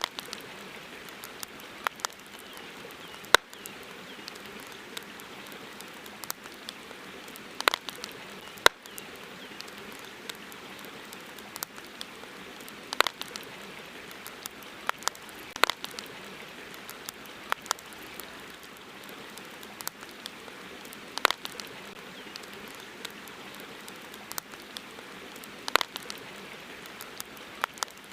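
Campfire crackling: irregular sharp pops and snaps, a few much louder than the rest, over a steady hiss.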